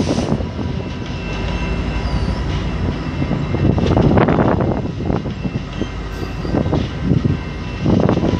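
Passing commuter train of Bombardier double-deck coaches: a steady rolling rumble with clusters of wheel clacks as each car's trucks go by, the loudest about halfway through.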